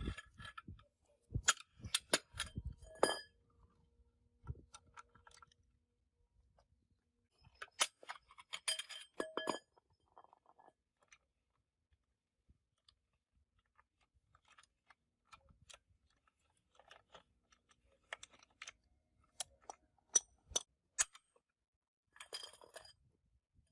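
Scattered metallic clinks and taps of steel parts and hand tools being handled, coming in short clusters with quiet gaps between.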